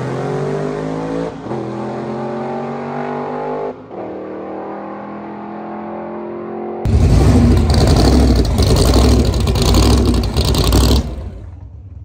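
Car engine accelerating hard through the gears on a drag-strip pass, its pitch climbing and dropping back at an upshift about a second in and again near four seconds, then running steadier. About seven seconds in, a loud, rough rumble takes over for about four seconds.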